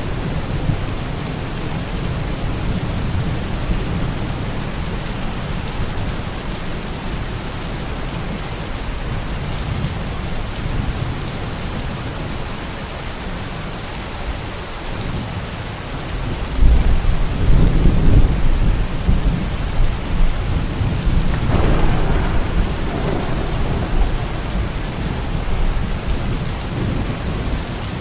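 Steady rain with rolling thunder: a loud, deep rumble breaks in a little past halfway and swells again a few seconds later before fading back under the rain.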